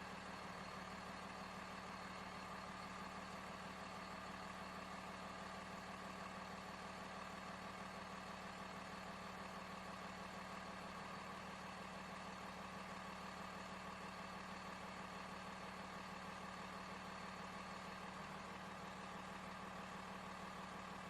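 Steady, even running of a small motor or engine at constant speed, like an engine idling.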